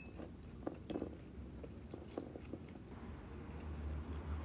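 Close-miked chewing of crunchy fried cheese dumplings in wonton wrappers: a scatter of small crisp crackles, thinning out after a couple of seconds.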